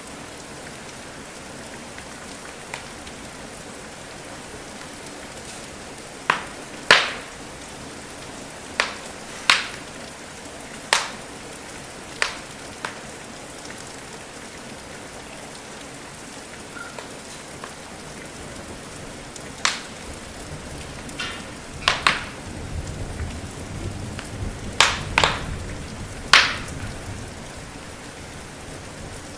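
Steady rain, with about a dozen sharp pops from a crackling wood fire scattered through it, and a low rumble late on.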